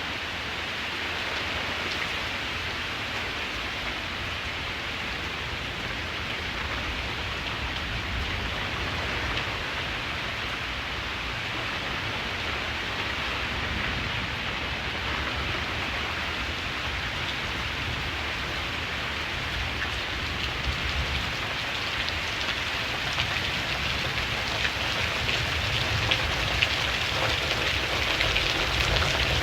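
Steady rain falling, getting a little heavier in the last third, with scattered louder drops near the end.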